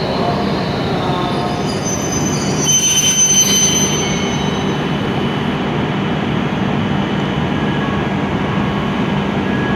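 E7 series Shinkansen train pulling into the platform and slowing to a stop: a steady running rumble, with a high brake squeal from about three seconds in that is the loudest moment.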